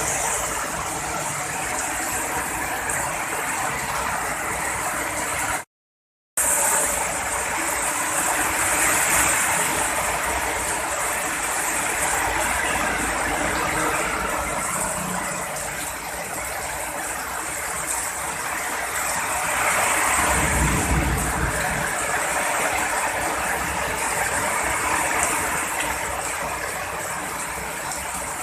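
Heavy rain pouring steadily, with a low rumble of thunder swelling about twenty seconds in. The sound cuts out completely for about half a second some six seconds in.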